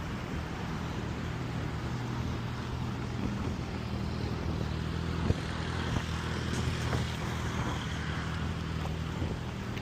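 Wind rushing over a glasses-mounted microphone while cycling, over a steady low engine hum, with a sharp click about five seconds in.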